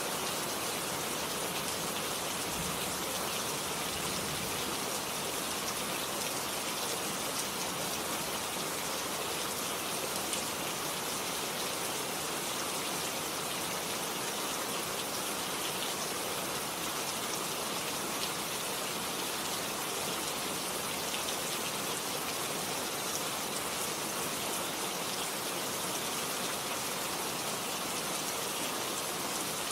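Steady rain falling and pattering on surfaces, a continuous even hiss with scattered drop ticks.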